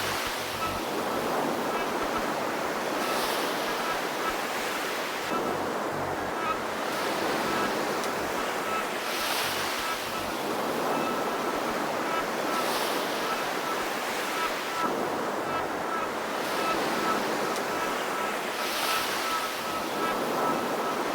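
Synthesized noise from a Korg Volca Modular, looped and delayed, swelling and ebbing about every three seconds like surf, with a faint thin high tone held under it.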